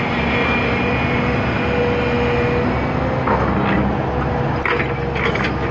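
Hitachi ZX200 excavator's diesel engine running steadily under load, with a steady whine over it, while loading a truck. Sharp knocks and cracks of loaded material strike several times from about three seconds in.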